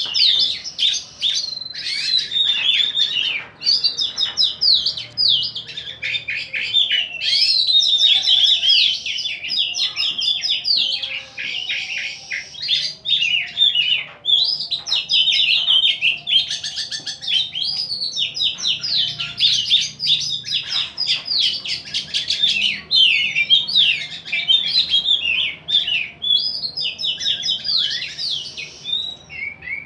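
Caged contest songbirds singing almost without pause in rapid, varied phrases of chirps, trills and sweeping notes. The birds are being pitted head-to-head to test their nerve and singing drive for contests.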